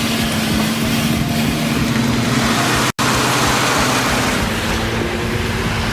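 Heavy haulage truck running under load, a dense steady rumble of engine and road noise with a low steady drone. The sound drops out for an instant about three seconds in.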